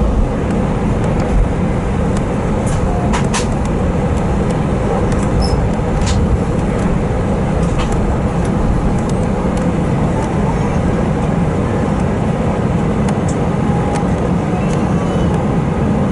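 Airbus A320 cabin noise as the jet rolls on the ground after landing: a steady low rumble of engines and wheels, with a few faint clicks.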